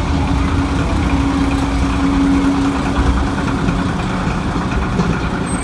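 Mk45 narrow-gauge diesel locomotive's engine idling with a steady low rumble and a droning tone that fades about four seconds in.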